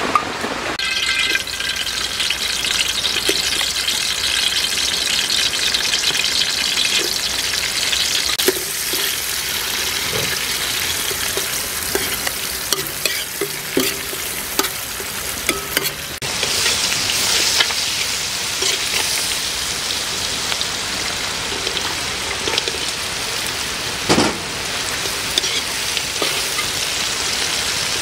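Lemongrass, chilies, garlic and frog pieces sizzling in hot oil in a metal wok, a steady frying hiss. A spatula scrapes and clicks against the pan, with one louder knock near the end.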